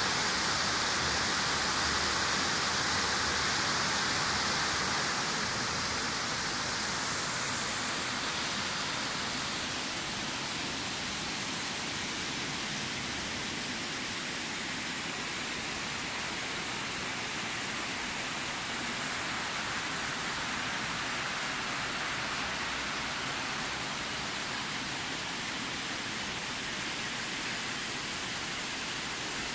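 A waterfall's falling water rushing in a steady hiss. It is a little louder and brighter for the first seven seconds or so, then holds even.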